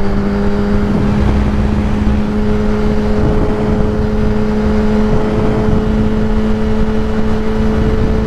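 Kawasaki ZX-10R's inline-four engine with a Graves race exhaust running at a steady cruise, rising slightly in pitch over the first second and then holding, under a heavy rush of wind noise.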